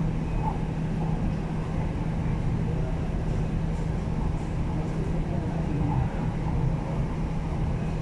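Steady running noise inside the cabin of an MTR East Rail Line R-Train in motion: a constant low hum under an even wash of wheel and track noise.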